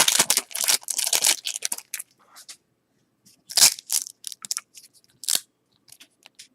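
Crinkling and crackling of a trading-card pack wrapper being handled and torn, dense for about the first two seconds, then a few separate crackles and clicks.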